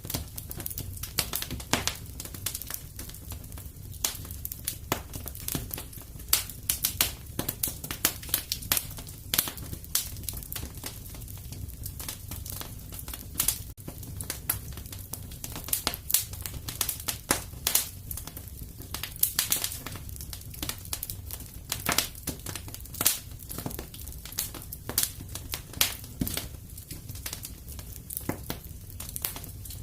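Wood fire crackling in a fireplace: a steady stream of irregular sharp pops and snaps over a low steady rumble of flame.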